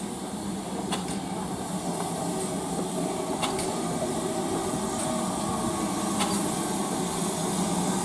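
A railway train running with a steady rumble that slowly grows louder, with a few faint clicks.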